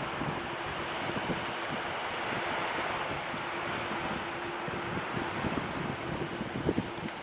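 Wind buffeting the microphone over the wash of surf on the beach, with a faint steady hum underneath.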